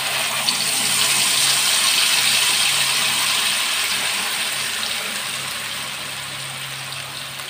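Blended chili spice paste hitting hot oil in a wok and frying with a loud sizzle that starts suddenly and slowly dies down.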